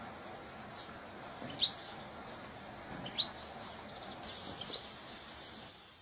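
A few short, high bird chirps, spaced a second or two apart, over a low, even background. A steady high hiss comes in about four seconds in.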